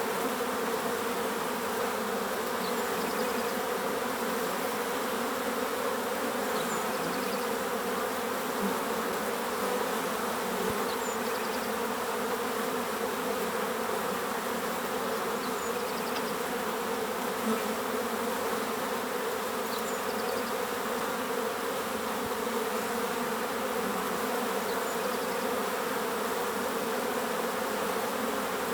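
Bees buzzing in a steady, dense drone. Faint short bird chirps come in now and then.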